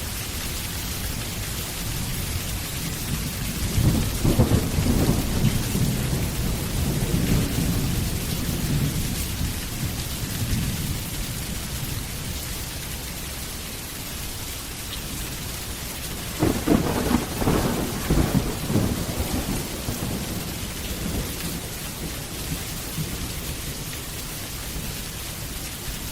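Steady rain falling with thunder rumbling twice: a long low roll about four seconds in, and a sharper crackling peal about two thirds of the way through.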